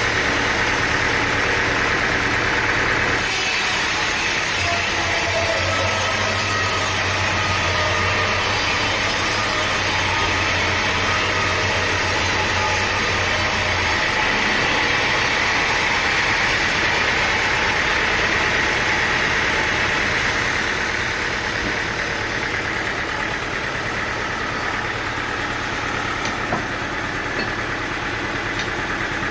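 Sawmill engine running steadily, its sound changing about three seconds in and again around fourteen seconds, a little quieter after about twenty seconds.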